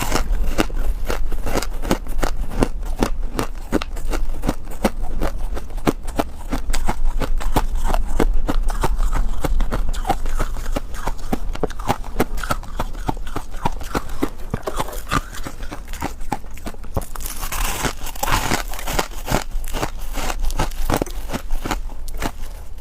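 Freezer frost being chewed close to the microphone: a fast, continuous run of crisp crunches, with a brief louder hissing rasp a few seconds before the end.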